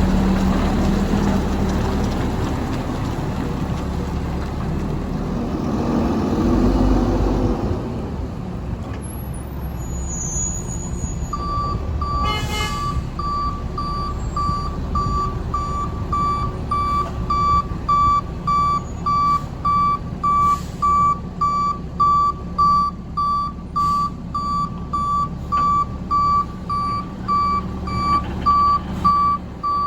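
Straight-piped Mack MR garbage truck engine running, throttling up briefly about six seconds in. From about eleven seconds in, its backup alarm beeps steadily about twice a second over the engine as the truck reverses.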